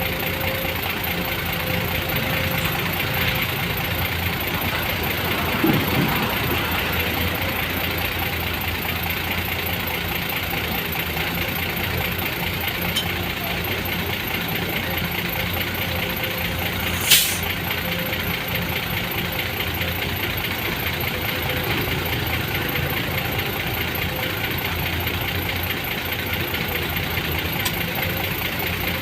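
An engine idling steadily, with one sharp click about two-thirds of the way through.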